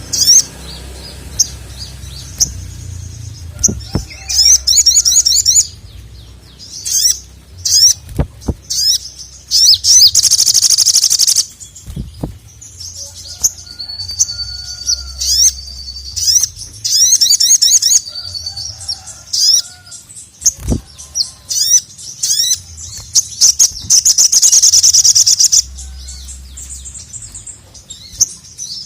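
A sogok ontong (little spiderhunter) singing hard: rapid high chirps and sharp notes in quick bursts, with two long buzzy trills, one in the middle and one near the end. A few sharp knocks are heard between the phrases.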